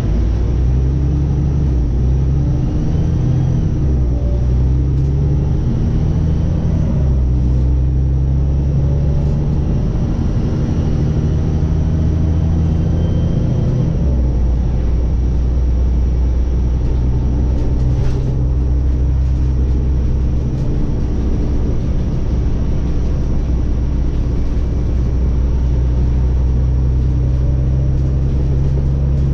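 Scania OmniCity city bus's engine running under way, heard from the driver's position: a loud, steady low rumble whose pitch shifts a few times as the bus changes speed and gear.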